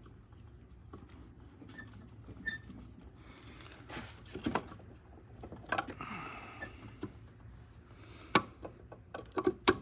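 Light metal clicks and knocks with two short rustles, from the countershaft of an EZGO Robin twin-cylinder engine being handled and set into its crankcase; the sharpest knock comes near the end.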